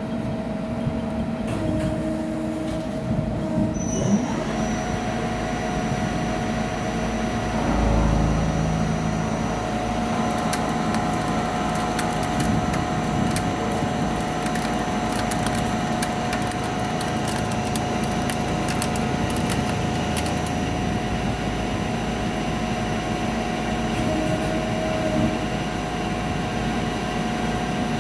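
CNC lathe running and turning a workpiece: a steady machine hum with several held tones. A high whine joins about four seconds in, and a spell of fast crackling ticks comes through the middle.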